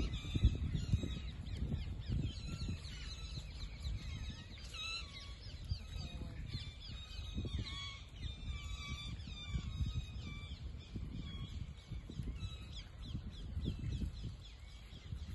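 A flock of birds calling, many short calls overlapping and repeating without a break, with wind rumbling on the microphone.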